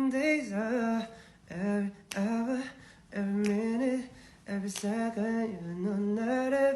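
A man's voice singing or humming a wordless melody with no accompaniment, in short gliding phrases broken by brief pauses.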